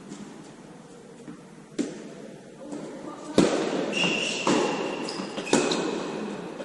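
Tennis ball struck by rackets in a rally: four sharp hits about a second apart, the second the loudest, with a steady high squeak between the later hits.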